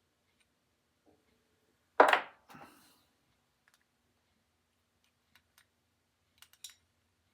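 Small metal parts and a measuring tool handled on a workbench: one sharp clunk about two seconds in, then a few light clicks near the end.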